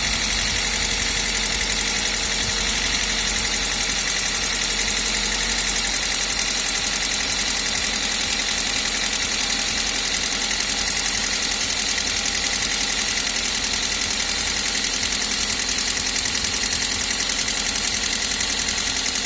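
Toyota 1ZZ-FE 1.8-litre four-cylinder engine idling steadily with a fast, even ticking from the valvetrain: valve tapping.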